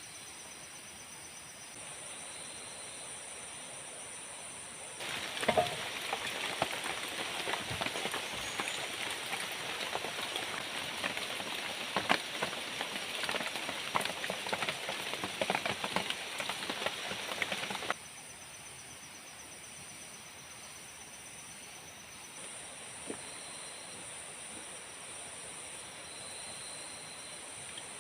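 Forest insects, crickets or similar, keep up a steady high drone with a fast pulsing trill. About five seconds in, a dense pattering, crackling noise full of sharp clicks starts suddenly. It stops just as suddenly about thirteen seconds later.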